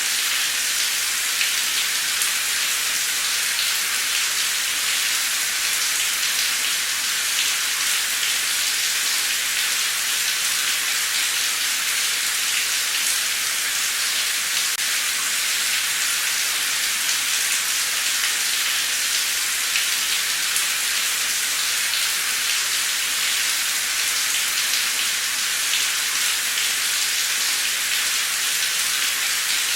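Heavy, torrential rain pouring down steadily, a dense hiss of drops with fine scattered patter and no break.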